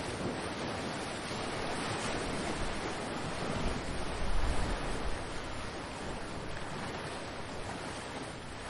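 Ocean surf washing ashore in a steady, unbroken rush, with a louder, deeper surge about four seconds in.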